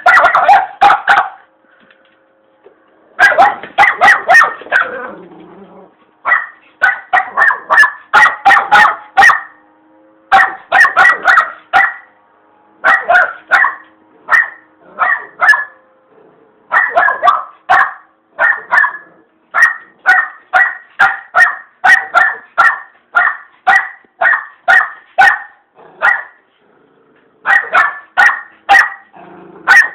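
A dog barking over and over at a vacuum cleaner it is afraid of. The barks come in quick bouts of several, a few a second, with short pauses between bouts.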